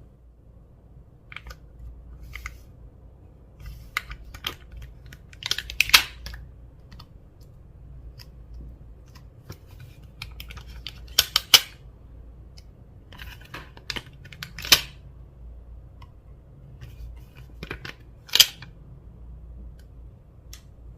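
Clear slime being worked by hand, making irregular sharp clicks and pops, with a few louder snaps spread through.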